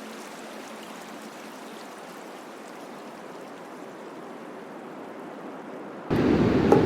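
Steady rushing of water, like surf on a beach. About six seconds in it cuts abruptly to a much louder rushing noise with a deep rumble.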